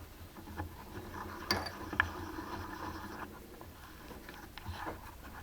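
Metal mini-lathe parts being handled and fitted together by hand: light clicks and scrapes, with two sharper clicks about a second and a half in.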